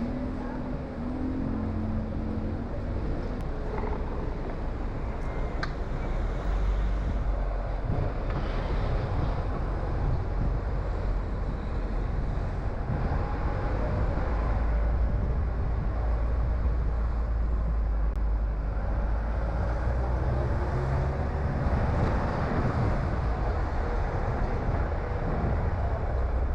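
A car driving, with steady engine and road noise as a low rumble.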